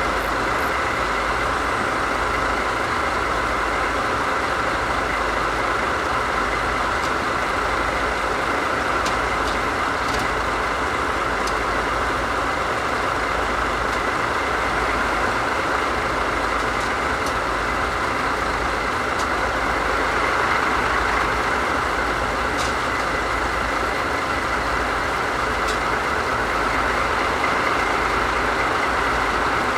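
JNR Class DD51 diesel-hydraulic locomotive's diesel engines idling steadily, with a few faint ticks over the top.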